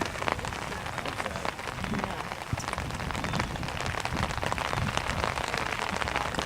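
Steady rain falling: a dense, continuous patter of small drops.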